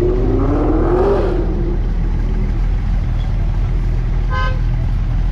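Car engine rumbling steadily, with a brief rev whose pitch rises about a second in. A short, high-pitched tone sounds about four seconds in.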